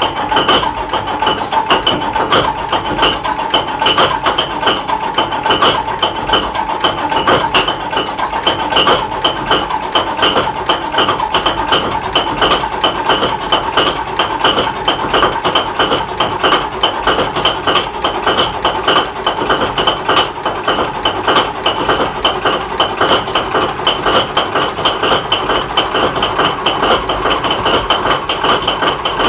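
Paxman VP185 V12 diesel in a Class 43 HST power car running steadily at idle, with a rapid, even firing pulse and a steady high whine over it.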